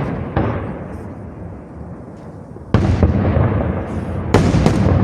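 Fireworks shells bursting. One bang comes shortly in, a louder one a little under three seconds in, and two more close together near the end, each trailing off in a long rolling echo.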